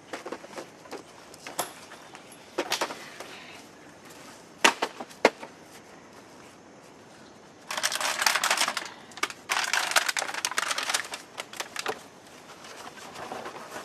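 Handling noise from sorting through belongings: a few sharp knocks, then about four seconds of dense crinkling and rustling, as of plastic or paper being handled.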